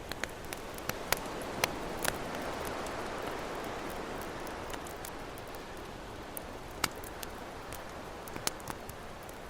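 Campfire crackling with sharp, irregular pops of burning wood over a steady wash of ocean waves, which swell gently in the first few seconds and then ease.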